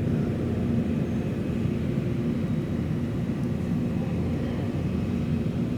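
Steady low rumble and hum of indoor background noise, with a faint constant drone and no distinct events.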